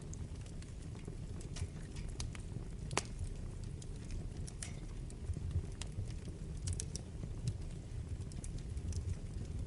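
Wood fire burning in a fireplace: a steady low rumble of the flames with irregular sharp crackles and pops from the burning wood, the sharpest pop about three seconds in.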